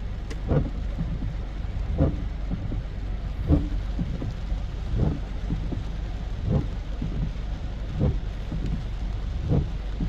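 Steady rain falling, with a dull low thump repeating evenly about every second and a half.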